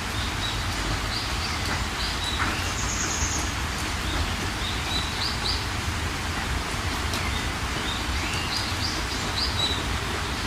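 Steady rain hiss with songbirds chirping and calling over it: many short chirps, a brief trill about three seconds in, and a few downward-sweeping calls.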